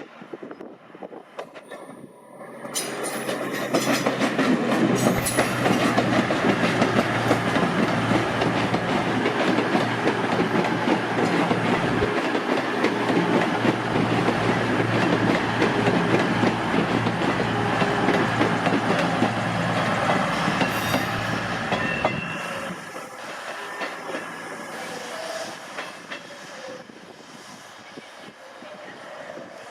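A train passing through on the main line, its wheels clattering over the rail joints. It comes up loud about three seconds in, runs steadily, and falls away about twenty-two seconds in to a quieter rumble.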